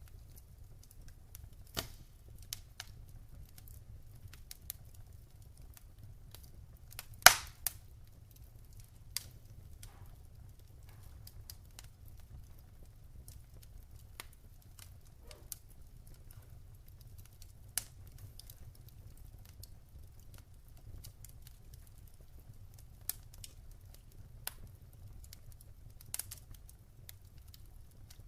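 Wood fire burning in a fireplace, crackling with scattered sharp pops at irregular intervals, the loudest about seven seconds in, over a low steady rumble.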